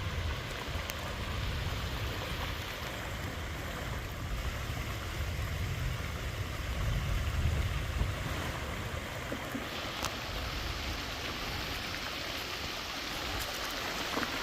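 Flash-flood water rushing down a runoff channel: a steady wash of running water with low rumbling at first, turning brighter and hissier about two-thirds of the way through.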